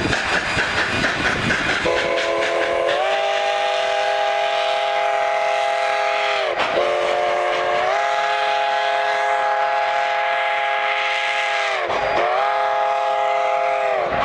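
Steam locomotive working with a quick rhythmic chuff, about four beats a second. About two seconds in, its chime steam whistle sounds a chord of several tones in long blasts: two long blasts, then a third that is still sounding at the end, each sagging in pitch as it closes off.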